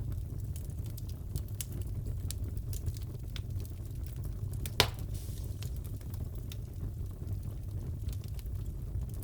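Wood fire crackling in a fireplace: scattered pops and snaps over a steady low rumble, with one sharper, louder pop about five seconds in.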